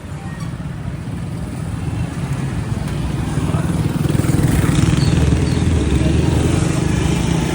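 Motorcycle engine running with street traffic noise, growing louder over the first few seconds as the bike pulls away and speeds up, then holding steady.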